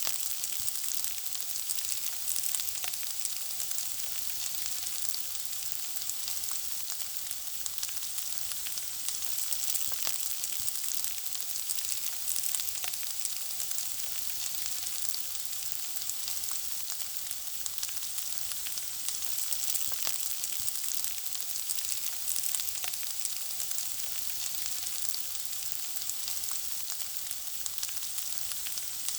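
Food frying in hot oil: a steady high sizzle scattered with small crackles and pops.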